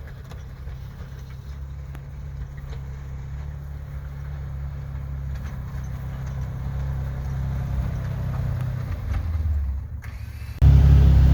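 Engine of a snow-plowing machine running steadily, a low drone that builds slightly over several seconds and dips briefly, then becomes suddenly much louder just before the end.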